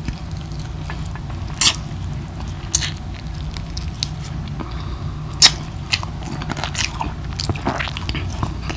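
A man chewing a mouthful of food close to the microphone, with a few sharp clicks of lips and teeth, the loudest about five and a half seconds in.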